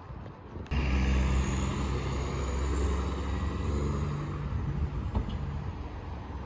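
A motor vehicle's engine rumbling. It comes in abruptly just under a second in, with a steady low hum, and gradually eases off.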